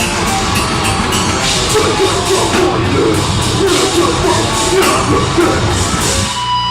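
A deathgrind band playing live at full volume: distorted guitars and drums with harsh screamed vocals over them. The band stops abruptly near the end, leaving a few steady ringing tones.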